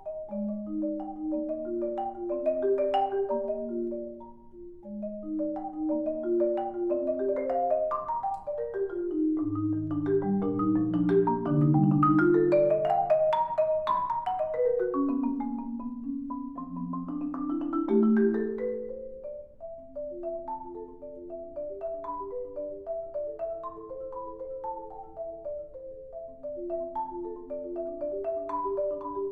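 Solo marimba playing a continuous melodic passage. About ten seconds in it sweeps down into the instrument's low register and is loudest there. From about twenty seconds on it turns to a softer, higher line of quick notes.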